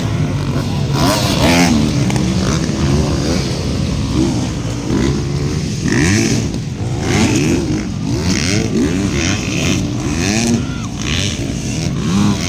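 Several motocross dirt bikes racing, their engines revving up and falling off again and again with overlapping rises and falls in pitch.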